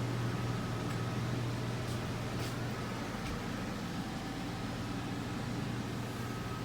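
A steady low machine hum with an even hiss underneath, unchanging throughout.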